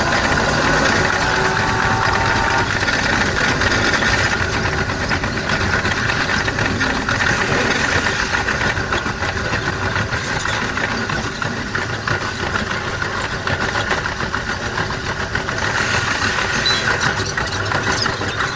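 KiHa 32 diesel railcar under way: its diesel engine and the wheels on the rails make a steady rumble. A thin high squeal sounds over it for the first couple of seconds.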